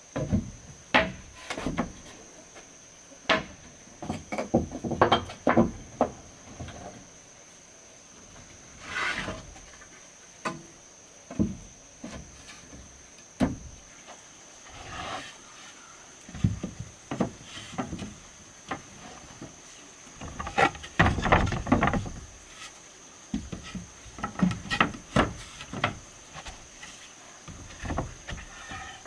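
Irregular knocks and thuds of hand work, some in quick clusters, over a faint steady high whine.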